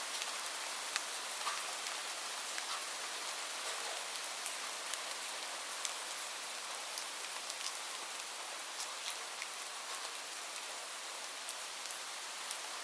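Steady rain, an even hiss with scattered individual drops ticking on a surface.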